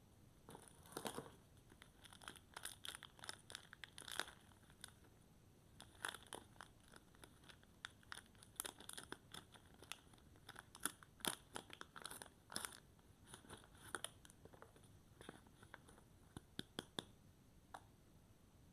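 Soap packaging being handled and torn open: irregular sharp crinkles and crackles coming in quick clusters.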